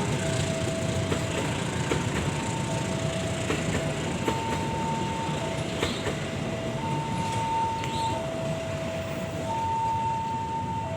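Level-crossing warning alarm sounding an alternating two-note signal, a lower and a higher tone taking turns about once a second. Under it runs the rumble of a passenger train passing over the crossing.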